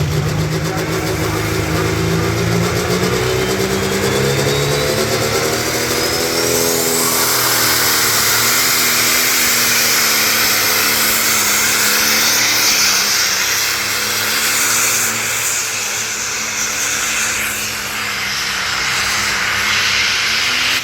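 Pulling tractor's engine at full throttle: its pitch climbs over the first seven seconds along with a high rising whine, then it runs loud and steady with the pitch wavering slightly.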